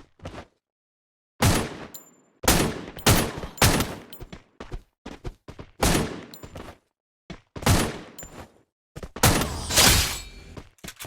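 A series of irregular sharp knocks and thuds, about seven loud ones, each dying away within a fraction of a second, with faint small ticks between them.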